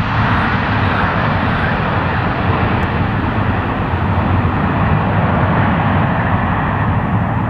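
Airliner's engines passing close by: a loud, steady rush of engine noise whose higher part fades away over the last few seconds as the aircraft moves off.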